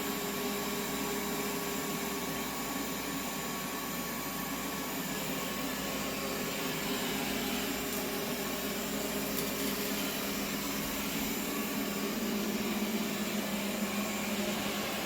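bObsweep PetHair SLAM robot vacuum running steadily as it cleans the floor: a steady motor hum with a faint whine.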